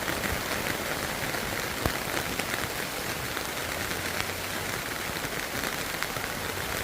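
Steady heavy rain falling, an even hiss with scattered drops ticking close by and one sharper tap about two seconds in.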